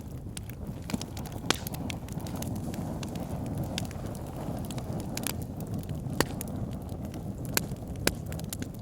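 Wood fire burning in an outdoor fire pit: a steady low rumble of flames with sharp crackles and pops at irregular intervals, a few louder snaps among them.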